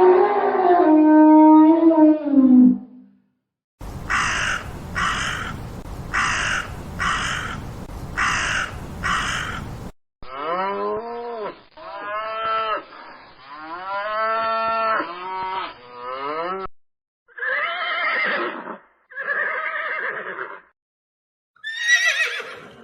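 A string of different animal calls one after another: a low drawn-out call fading out in the first few seconds, then six raspy rhythmic bursts, then a run of quick rising-and-falling calls, and finally a few short separate calls.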